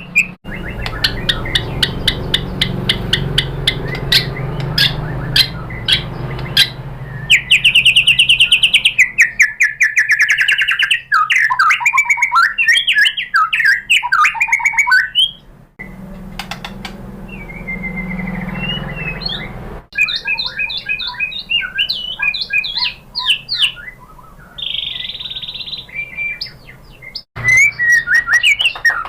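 White-rumped shama (murai batu) singing a varied song of whistled phrases, rapid trills and sharp clicking notes, with a low hum beneath. The song breaks off abruptly a few times where separate recordings are joined.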